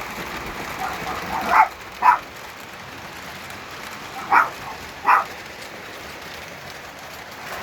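A chihuahua barking: four short barks in two pairs, about a second and a half in and again past the middle. Under them runs the steady noise of a Lionel Conrail Rectifier O-gauge electric locomotive running on its track.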